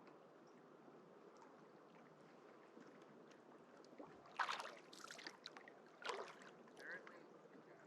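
Kayak paddle blades dipping and splashing in the water, two strokes about four and a half and six seconds in, with drips after, over a faint steady hiss of wind.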